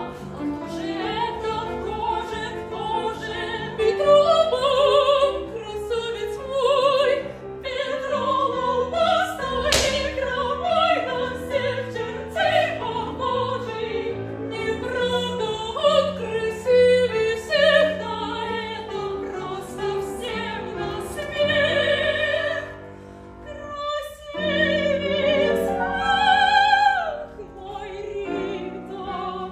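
Operetta singing: classically trained voices with vibrato over instrumental accompaniment, a sung number performed live. The music stops briefly a few seconds before the end, then resumes.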